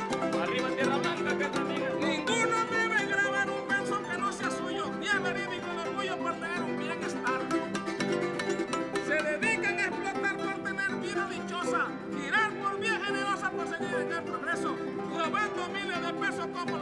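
Son jarocho string ensemble playing: a Veracruz harp with a strummed jarana and a plucked requinto, with a voice singing a verse over them.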